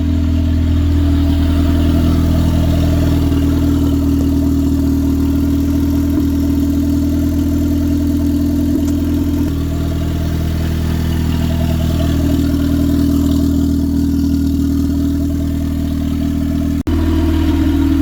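Turbocharged Honda Civic engine idling steadily, with a brief break in the sound near the end.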